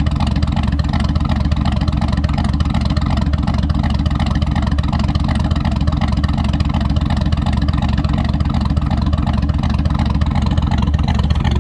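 Truck's LS V8 with a BTR Norris camshaft idling in drive at about 660 rpm with a cam lope, against a stock torque converter. The exhaust runs through stock manifolds and catalytic converters with the muffler deleted.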